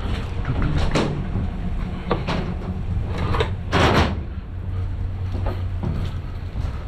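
Several short knocks and clanks, the loudest about four seconds in, over a steady low hum.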